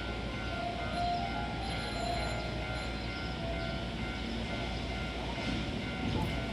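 Hankyu 9000 series electric train pulling out of the station, a steady running noise with a faint whine about a second in.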